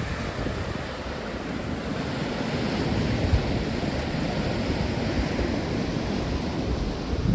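Sea waves breaking and washing on the shore, with strong wind buffeting the microphone in gusts.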